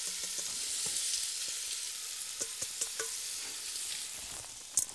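Floured eel pieces, diced bacon and carrot frying in hot bacon fat in a large pot: a steady sizzle with scattered small pops and spits, and one sharp click near the end.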